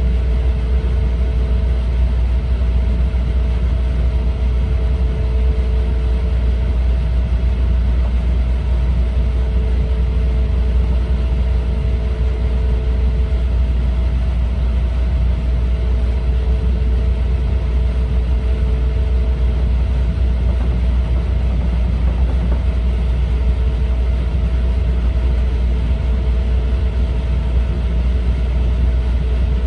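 Steady low rumble of an E4 series double-deck Shinkansen running at speed, heard inside the passenger cabin. A faint steady hum runs over it, with a lower hum that comes and goes every few seconds.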